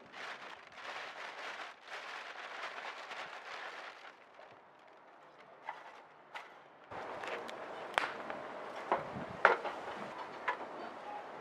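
Wood fire in a portable fire pit crackling, with scattered sharp pops and snaps. It is quieter for a few seconds in the middle, and the loudest snaps come in the second half.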